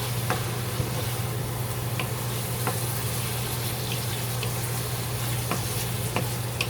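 Chicken liver and mushrooms sizzling in a pan of sauce while being stirred, with a few short taps of the utensil against the pan. A steady low hum runs underneath.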